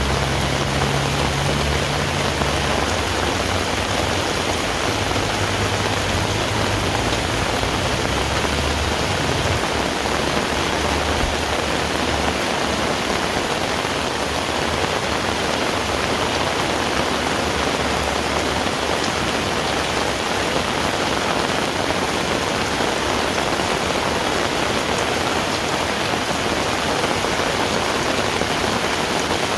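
Heavy rain falling steadily, a dense even hiss. A low motor hum dies away during the first ten seconds or so.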